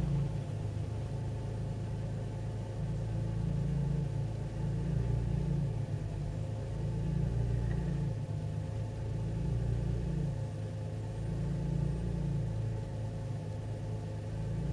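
Chevrolet Camaro engine idling at about 1,000 rpm just after a rough start, heard from inside the cabin. The low rumble swells and dips unevenly every few seconds.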